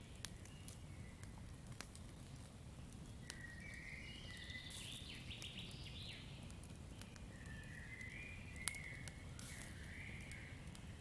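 Campfire crackling with scattered sharp pops over a low steady rumble, one louder pop near the end. High warbling animal calls come in twice, around the middle and again later.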